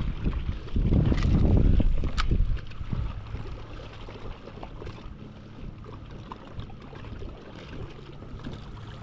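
Wind rushing over the microphone and water lapping around a small kayak-type boat, loudest in the first two seconds or so, with one sharp knock a little after two seconds in. After that it settles into a quieter, steady low hum.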